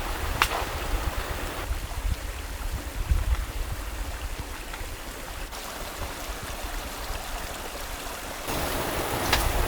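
A mountain stream flowing steadily, with a low wind rumble on the microphone and a single sharp click about half a second in.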